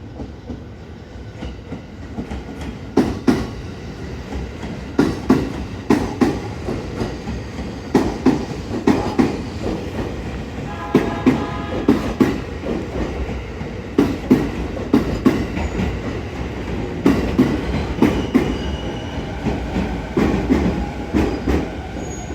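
JR E231 series electric train pulling into a station, its wheels clacking over rail joints in regular pairs as each bogie passes, over a steady running rumble. A brief whine sounds about eleven seconds in.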